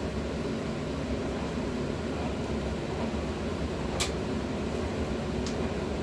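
Steady hum and whoosh of a running exhaust ventilation fan. A sharp click comes about four seconds in, and a fainter one a second and a half later.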